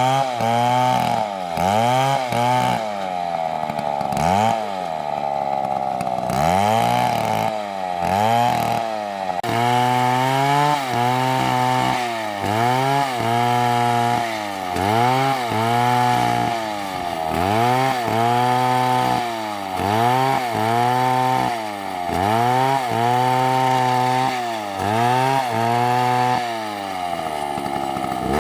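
Large two-stroke chainsaw, an MS720, cutting a big tree. The engine pitch rises and falls over and over, about once a second, as the saw loads and unloads in the cut. Near the end it drops back toward idle.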